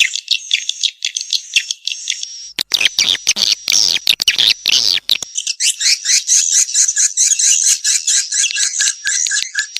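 Swiftlet calls: rapid trains of short, high-pitched twittering chirps. A few seconds in comes a harsher, fuller stretch of calls, then dense chirping resumes.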